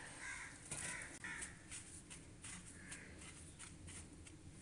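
Faint, short bird calls repeating about half a dozen times, mostly in the first two seconds and again around three seconds in. Under them is soft rustling as hands work dry gram-flour spice masala in a bowl.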